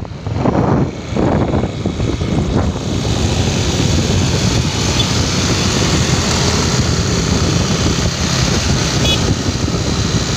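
A vehicle under way on the road: steady engine and road noise, with some uneven surges in the first couple of seconds before it settles into a constant rush.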